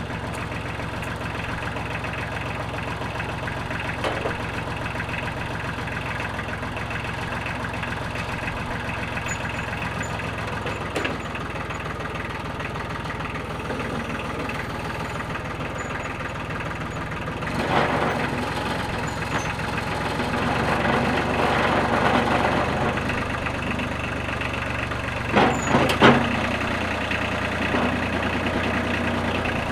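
Utility tractor's engine running steadily. Its pitch shifts about a third of the way in, and it runs louder from about halfway as the tractor works. A few sharp knocks come near the end.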